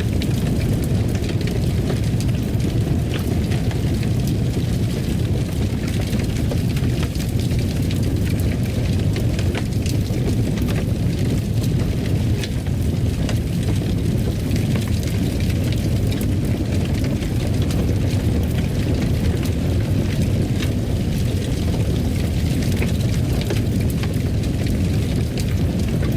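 Wood fire crackling in a fireplace: a steady low rumble of flames with many small pops and crackles.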